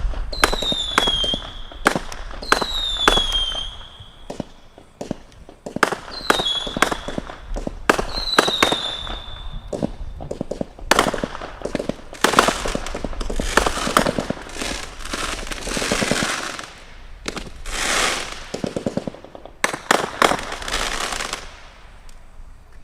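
Consumer firework cakes firing: a rapid string of sharp bangs, with four short falling whistles in the first ten seconds, then long stretches of dense crackling.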